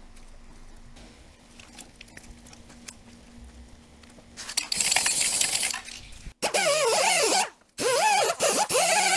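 A few small handling clicks, then cleaner sprayed in several loud hissing bursts to wash out a gearbox's driveshaft opening and CV-joint boot. The later bursts carry a wavering whistle.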